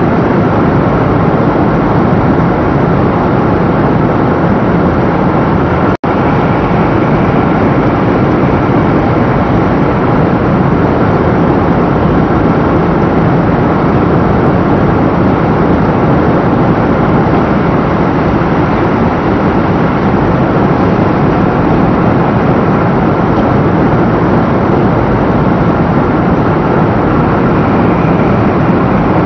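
500 series Shinkansen running at speed, heard from on board as a loud, steady rumble and rush of running noise. The sound cuts out for an instant about six seconds in.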